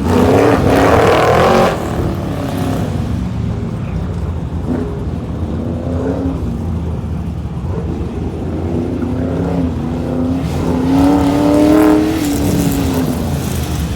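Racing mini truck's engine running under load, its pitch changing as it is revved. It is loudest and harshest for the first two seconds, and the pitch rises again about eleven seconds in before falling off.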